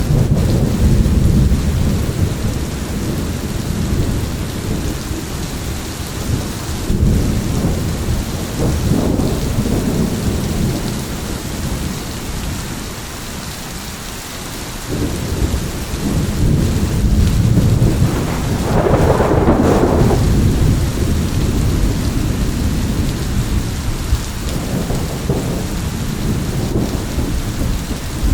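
Steady heavy rain with rolling thunder rumbling on and off, easing for a few seconds around the middle, then building again into a louder thunderclap with rumbling about two-thirds of the way in.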